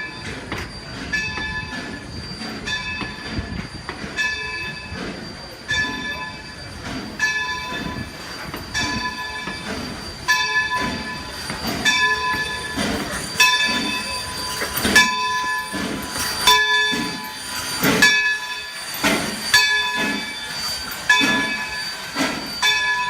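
Excursion train running, with a ringing tone that repeats about every one and a half seconds over a low rhythmic pulsing. It grows louder about halfway through.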